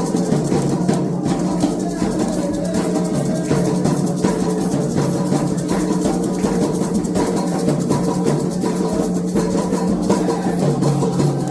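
Candomblé ritual percussion: atabaque hand drums playing a dense, steady rhythm together with a shaken rattle.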